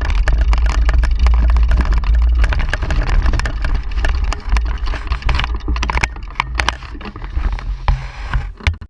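Mountain bike ride heard from the bike: deep wind buffeting on the microphone with a dense stream of clicks and rattles from the bike and tyres over the path. It gets quieter over the last three seconds.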